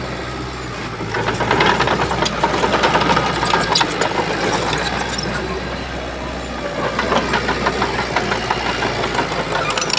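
Heavy diesel engine of a Shantui bulldozer running under load, with rapid metallic clanking over the steady engine note. It grows louder for a few seconds about a second in, and again for a few seconds near the end.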